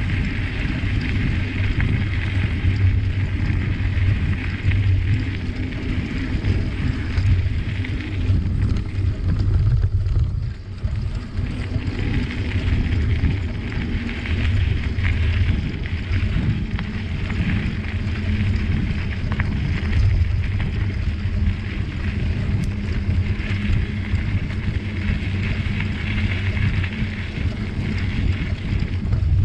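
Wind rushing over the microphone and the rumble of a bicycle rolling along a trail, with a brief lull about ten seconds in.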